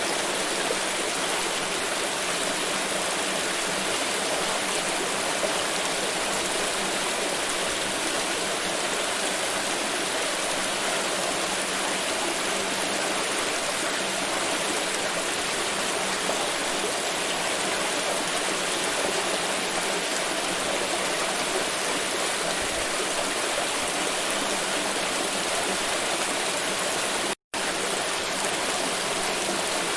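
Water pouring in a steady, continuous rush, like a stream or small waterfall. Near the end the sound cuts out for a split second, then resumes.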